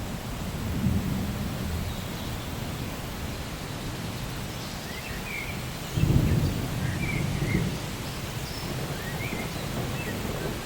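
Steady rain with low rolls of thunder, the loudest starting about halfway through and lasting a couple of seconds. A few short bird chirps come through the rain in the second half.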